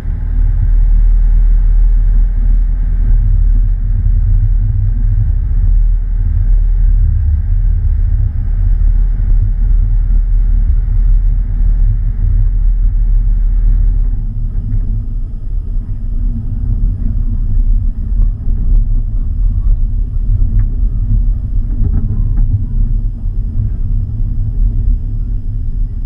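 A car driving, heard as a steady low rumble, with a fainter hiss above it that drops away about halfway through.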